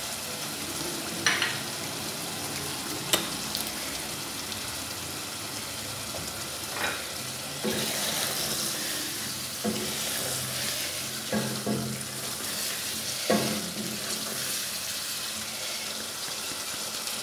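Chicken korma sizzling steadily in a saucepan on a gas flame as its gravy is cooked down, with a wooden spoon stirring it and knocking sharply against the pot about eight times.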